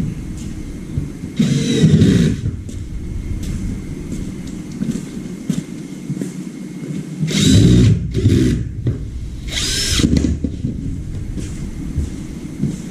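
A power tool runs in three short bursts, a few seconds apart, over a steady low hum.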